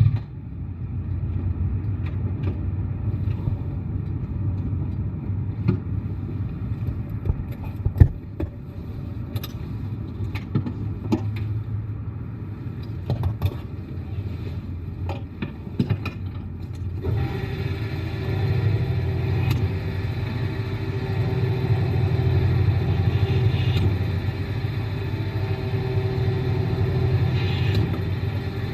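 Three-cylinder motorcycle engine running at low load in city riding, a steady low rumble with scattered clicks and knocks. A little past halfway it gets louder and fuller, with a steady hum added, as the bike pulls along under more throttle.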